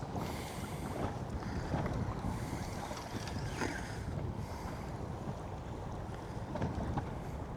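Wind buffeting the microphone over water lapping against a small boat's hull.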